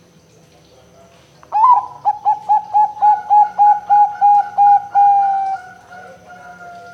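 Zebra dove (perkutut) singing: a quick run of about a dozen short coos, roughly four a second, ending in one long drawn-out note that sinks slightly in pitch.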